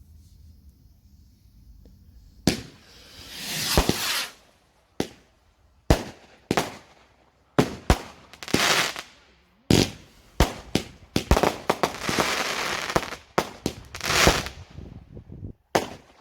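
Consumer fireworks going off: after a quiet start, a rapid, irregular series of sharp bangs begins about two and a half seconds in, mixed with hissing, crackling stretches that swell and fade, and stops just before the end.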